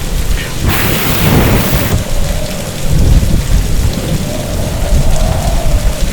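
Heavy storm rain with a constant low rumble, and a loud crack of thunder about a second in that lasts about a second.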